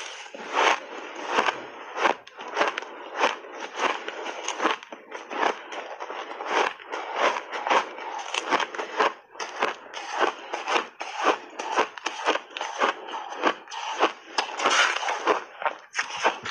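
A person chewing frozen shaved ice, with repeated crisp crunches about two a second over a steady crackle of ice breaking between the teeth.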